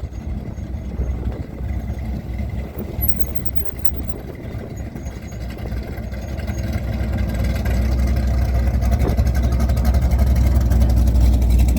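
A car engine running with a steady low rumble, growing louder over the second half.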